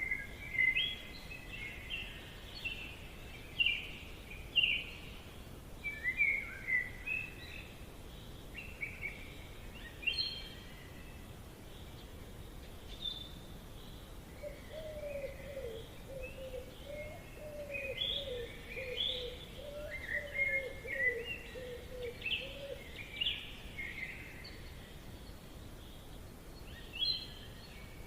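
Forest ambience: several birds calling and chirping in short phrases over a steady background hiss, with a lower, wavering call repeating through the middle stretch.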